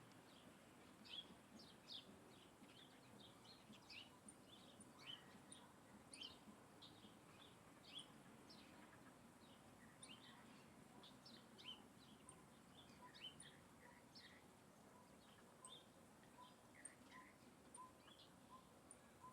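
Birds chirping: a continual scatter of short, high, quick chirps, several a second, with fainter high ticks among them.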